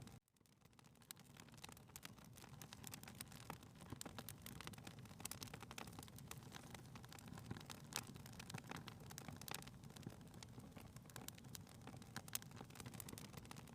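Faint fireplace fire crackling: scattered sharp pops and crackles over a low steady rumble. It cuts out just after the start and fades back in over about a second.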